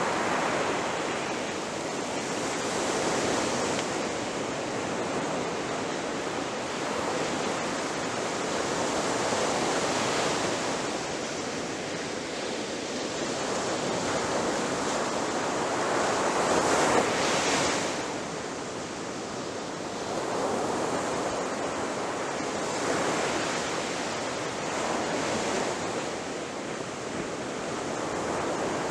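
Ocean surf breaking on a shore: a continuous wash of waves swelling and easing every few seconds, with the biggest wave crashing about two-thirds of the way through.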